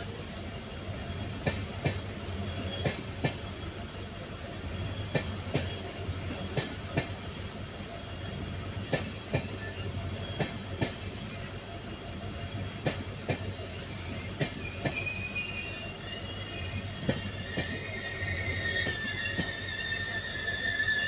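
Indian Railways passenger coaches rolling slowly past on arrival, their wheels clacking over rail joints about once a second over a steady rumble. A high steady squeal runs throughout, and wavering wheel squeals build from about the middle toward the end.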